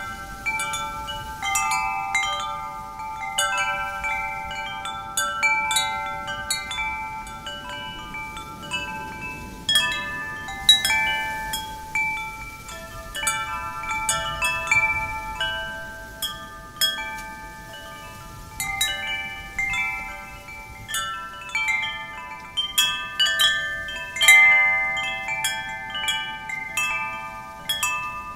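Wind chimes struck irregularly by the wind, the tubes ringing out in overlapping clear tones. A faint rush of wind lies underneath.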